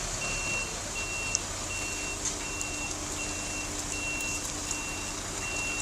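Vehicle reversing alarm beeping steadily, roughly one short high beep every three-quarters of a second, over the low hum of an idling heavy engine.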